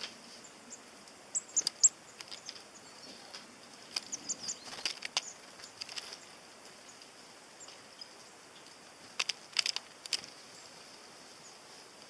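Tits at a sunflower-seed feeder: clusters of sharp taps and clicks of birds landing and pecking at seeds, with a few short high chirps, over a faint steady hiss.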